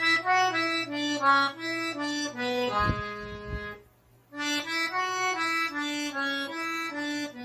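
Accordion playing a slow melodic line of single notes, the second part of a forró tune at practice tempo. It stops briefly about four seconds in, then plays the phrase again.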